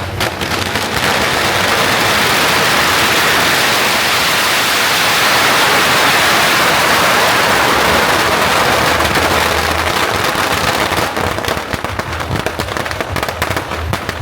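A long string of firecrackers going off in a dense, continuous crackle, breaking into separate cracks over the last few seconds.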